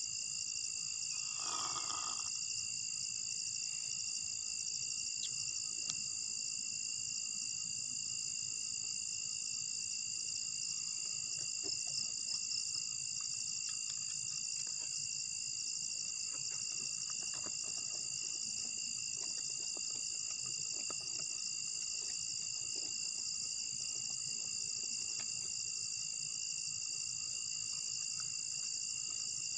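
Steady high-pitched chorus of crickets and other insects. About a second and a half in, a single short call falls in pitch, and faint scattered ticks come and go later.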